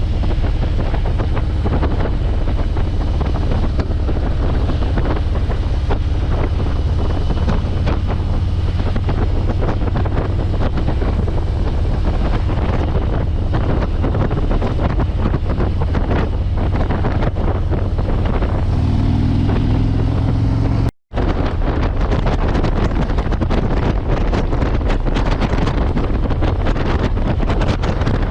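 Motorcycle riding at speed: heavy wind buffeting on the microphone over a low, steady engine rumble. The engine note shows through briefly about two-thirds of the way in, and just after that the sound cuts out for an instant before resuming.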